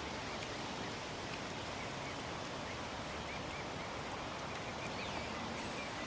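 Steady outdoor ambience: an even hiss with faint small-bird chirps scattered through it.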